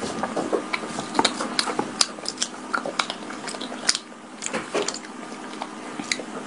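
Close-up biting and chewing of soft, sticky glutinous rice balls (yuanxiao) coated in chocolate sauce: wet, sticky mouth sounds with many short clicks.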